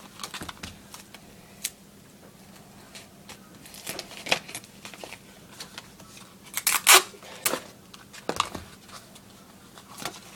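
Scissors snipping through a paper folder, with paper rustling and handling: irregular sharp snips and clicks, the loudest cluster about seven seconds in.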